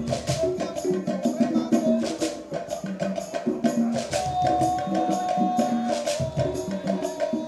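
Afro-Cuban rumba played live by a percussion-only ensemble: several hand drums interweave fast, elaborate patterns over a sharp wooden clicking beat, while voices chant over the drums. There are no horns.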